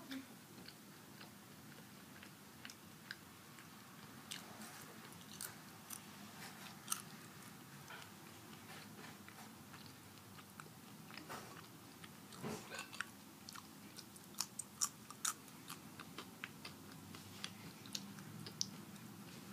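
A person chewing nacho chips close to the microphone, with scattered sharp crunching clicks, sparse at first and more frequent in the second half.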